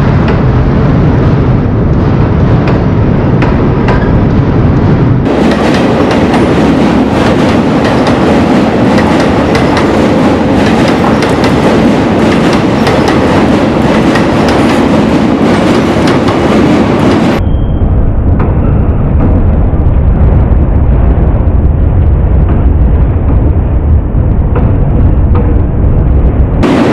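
Passenger train running on the rails of the Digha–Sonpur railway bridge, wheels clattering over a loud, steady rumble. The sound changes abruptly about 5 seconds and 17 seconds in, as between separately recorded clips.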